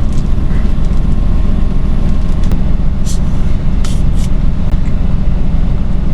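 Semi truck's diesel engine idling steadily, with a few light clicks about three and four seconds in.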